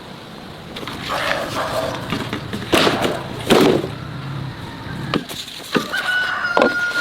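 Rooster crowing, one long held call starting near the end. Earlier, two loud sharp cracks a little under a second apart.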